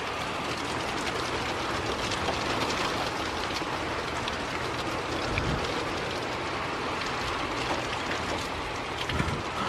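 Heavy rain and wind of a severe thunderstorm, a steady rushing noise.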